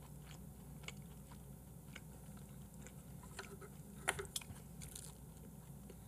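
Faint mouth sounds of a person chewing food close to the microphone, soft wet clicks scattered throughout, with a couple of sharper clicks about four seconds in.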